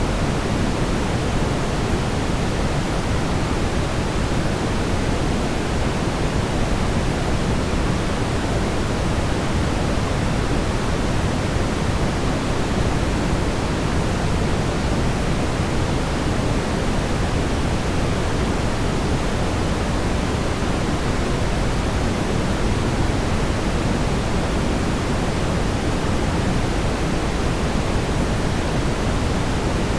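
Continuous brown noise: a steady, deep rumbling hiss, strongest in the low end and fading toward the treble, with no changes or events.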